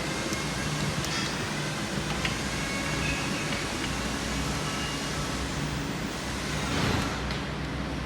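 Steady background noise with a low hum, a few faint clicks and a brief louder swell near the end.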